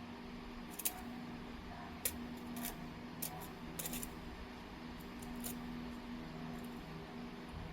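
Oregon jasper being knapped: about half a dozen sharp, irregular clicks as flakes come off the stone, most of them in the first four seconds.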